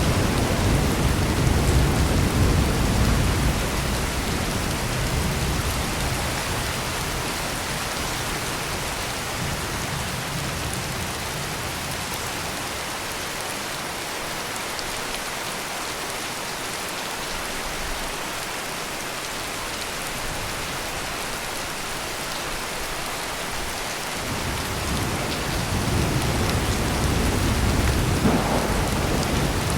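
Heavy rain pouring steadily, with a low roll of thunder that fades away over the first few seconds and a new rumble building near the end.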